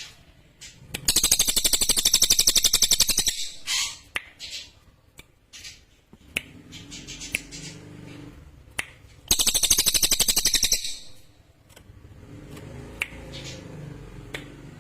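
Cililin songbird singing: two loud, sharp, very rapid high trills, the first about two seconds long near the start and a shorter one past the middle, with short chirps and clicks in between.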